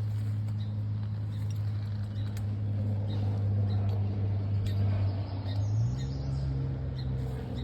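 Truck engine on a highway, a steady low drone that steps up in pitch about six seconds in and drops back near the end.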